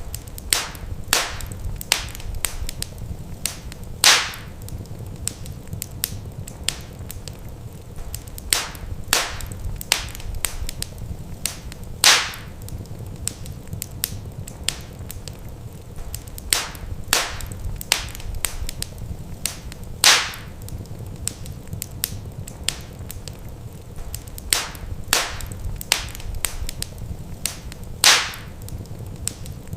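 Wood fire crackling in a fireplace: sharp pops and snaps over a low steady rumble, with one louder pop about every eight seconds.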